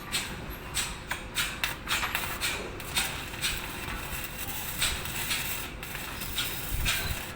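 Stick (arc) welding on galvanized iron pipe: the electrode arc crackles and sizzles steadily, with irregular sharper pops.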